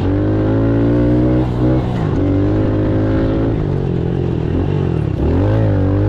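Pit bike engine running under throttle. The revs drop briefly about two seconds in and again around five seconds, then climb back up.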